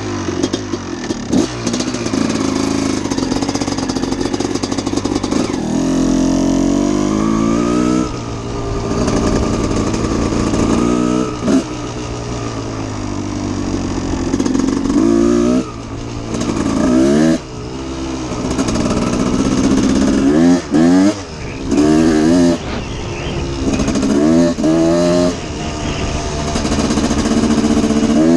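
1989 Honda CR250's two-stroke single-cylinder engine warming up: running fairly steadily at first, then revved in a series of quick throttle blips through the second half.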